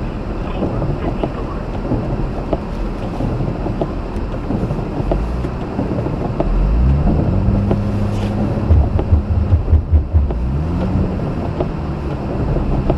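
Mazda RX-8 driving through snow, heard from inside the cabin: steady road, tyre and wind noise. About halfway through, the twin-rotor rotary engine's low hum rises in pitch as the car accelerates, then pulses unevenly for a second or so before climbing again.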